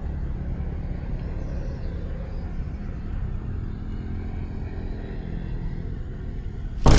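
Steady low rumble with a faint engine-like hum, then a sudden loud burst of noise right at the end.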